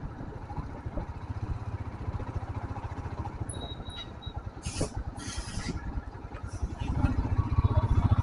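Royal Enfield Himalayan's single-cylinder engine running with a steady low thump of firing pulses, swelling a little twice. A couple of short hissing bursts come about five seconds in.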